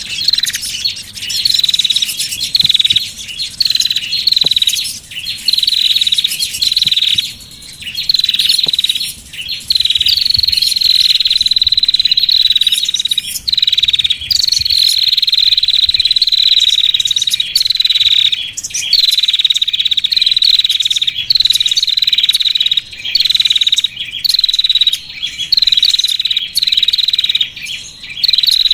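Small songbirds' high-pitched calls from a bird-lure recording: rapid, repeated sharp chirps, with stretches of long unbroken trilling a third and half of the way through.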